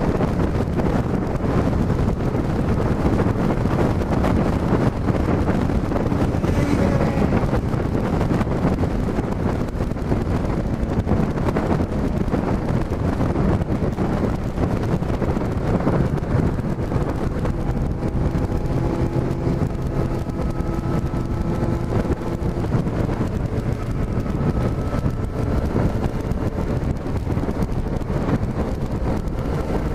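Yamaha XJ6 F's 600 cc inline-four running while riding, its stock exhaust drilled for a sportier note, under steady wind rushing over the camera microphone. Faint steady engine tones come through about two-thirds of the way in.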